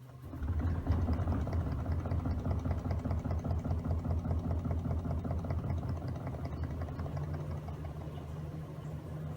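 Miele W1 front-loading washing machine starting a loud phase of its cycle about half a second in: a churning, rapidly fluttering machine noise that slowly eases off.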